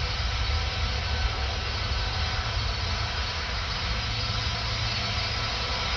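Airbus A320 jet engines at takeoff thrust during the takeoff roll: a steady jet noise with a heavy low rumble and a faint steady whine above it.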